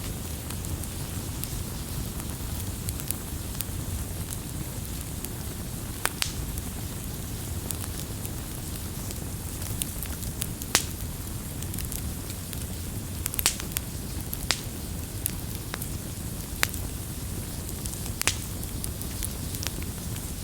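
Wood fire burning with a steady low rumble, and sharp pops and crackles scattered at irregular intervals, a few much louder than the rest.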